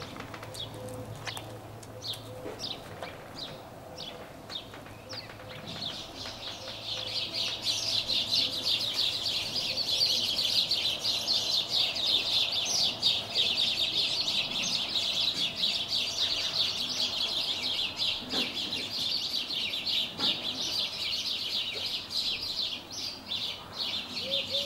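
Small birds chirping. For the first few seconds a short chirp repeats about twice a second. About six seconds in it gives way to a louder, dense, unbroken chattering of rapid chirps.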